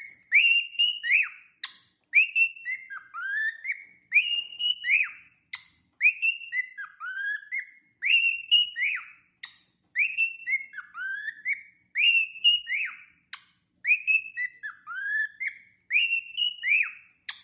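Parrot whistling the same short phrase of gliding notes over and over, about once every two seconds.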